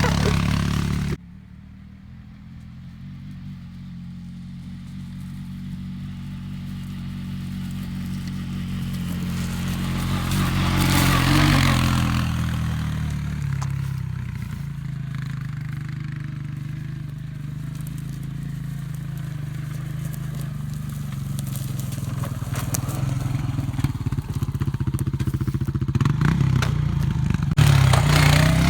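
Four-wheeler (ATV) engine running, getting louder and rising in pitch to a peak about eleven seconds in, then easing off, and building again near the end. A loud stretch cuts off abruptly about a second in.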